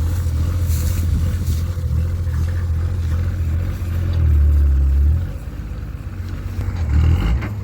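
Tractor engine running with a deep, steady rumble. It grows louder for about a second around four seconds in, then eases off, with another brief surge near the end.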